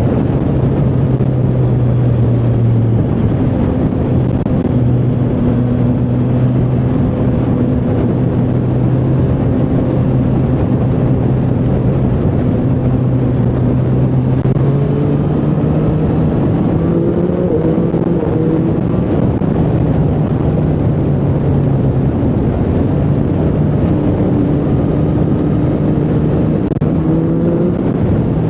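Triumph Street Triple 765R's inline three-cylinder engine running under way at a fairly steady cruise, with wind and road noise. Its pitch rises gently a couple of times as the bike pulls, and eases off between.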